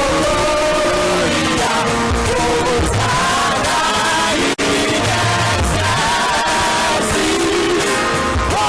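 Gospel choir singing loudly with live band accompaniment, held voices sliding between notes over bass notes. The sound drops out for an instant about halfway through.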